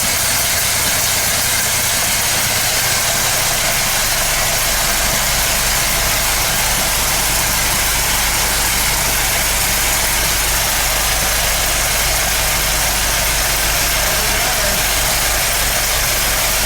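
Rebuilt Ford Model T four-cylinder flathead engine running steadily after its first start. A deeper low hum comes in about four seconds in, and the engine sounds pretty good.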